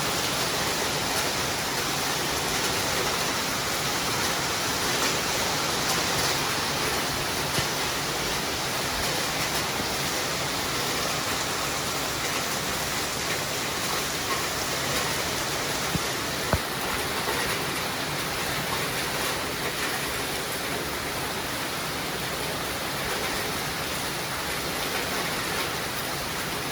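Steady rain falling as an even hiss, with a few sharp ticks, one about seven seconds in and one about sixteen seconds in.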